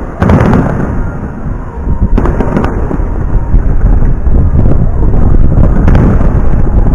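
Fireworks display: aerial shells bursting in loud bangs, about a quarter of a second in, around two seconds in and near six seconds, with a continuous low rolling rumble of further bursts between them.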